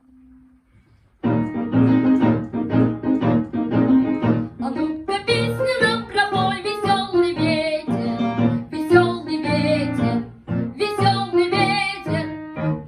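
Piano starting a lively, rhythmic introduction about a second in, then a child's voice singing over the piano accompaniment from about five seconds in.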